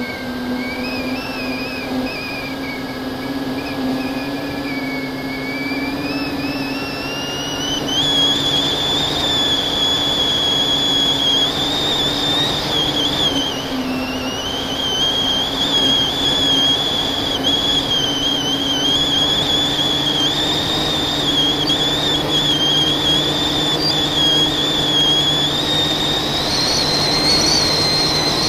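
FPV quadcopter's brushless motors and propellers whining in flight, the pitch rising and falling with the throttle, stepping up about a third of the way in and again near the end.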